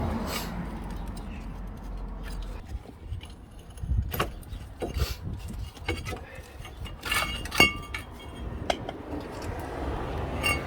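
Metal tools and brake parts clinking and knocking as the front brake of a Fiat Punto Evo is worked loose. There are several sharp strikes, a few of them with a short metallic ring.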